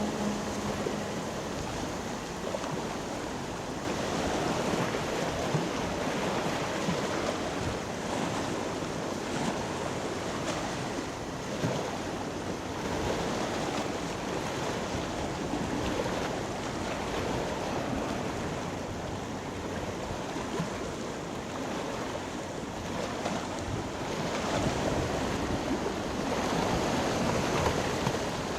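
Steady wind and water noise, with wind buffeting the microphone; it gets a little louder about four seconds in and again near the end.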